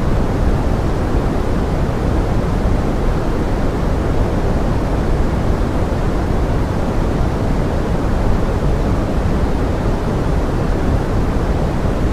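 Steady pink-noise forest rain: an even, unchanging rushing hiss, heaviest in the low end and thinning toward the highs, with no separate drops or other events standing out.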